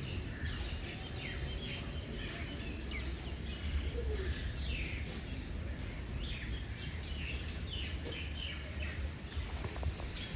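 Small birds chirping over and over in short, falling calls, over a steady low rumble.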